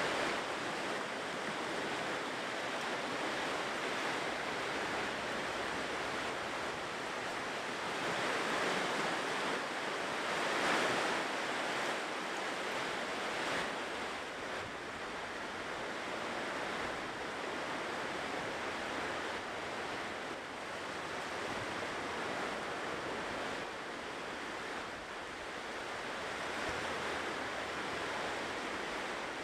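Ocean surf washing onto a shore: a continuous hiss of breaking waves that swells and ebbs slowly, with the loudest wave about ten seconds in.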